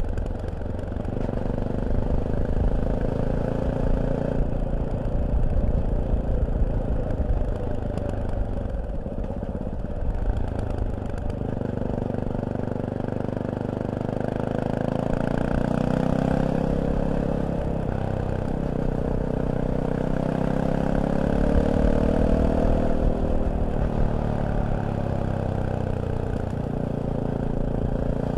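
Fantic Caballero 500's single-cylinder engine at low revs with an even thumping beat, then from about eleven seconds in the revs climb and fall as the bike rides on.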